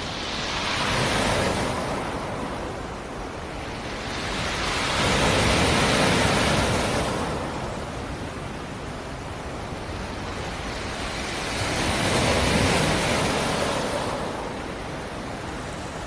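Black Sea surf: waves breaking on the shore and washing back. The rushing noise swells and fades three times, a few seconds apart.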